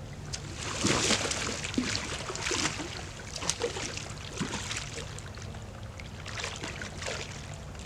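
Water splashing and sloshing in a few short bursts, the loudest about a second in and another cluster near the end.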